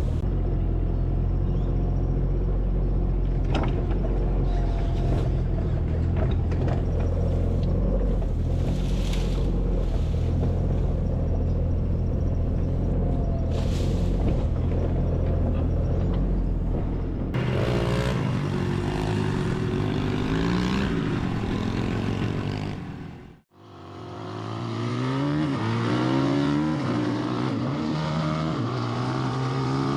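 An engine running steadily with a deep hum, then, from about halfway, motorbike engines revving up and down over and over as they are ridden, with a momentary break a little past two-thirds through.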